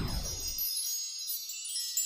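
High, shimmering tinkle of chimes with many overlapping ringing tones, like wind chimes, a magical sparkle effect. The lower music and voice die away about half a second in, leaving only the chimes.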